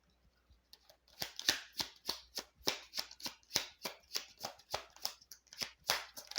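A deck of tarot cards being shuffled by hand: a quick run of short crisp card flicks, about four a second, starting about a second in.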